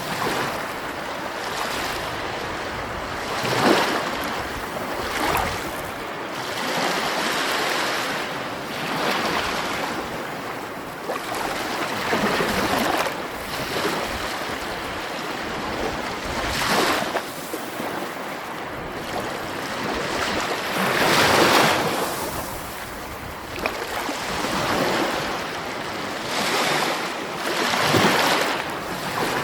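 Sea waves breaking and washing on a shore, a steady surf hiss that swells with each wave every few seconds, the biggest about three quarters of the way through.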